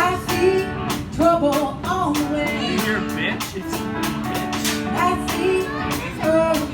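Live band music: a singer with guitar accompaniment over a steady beat.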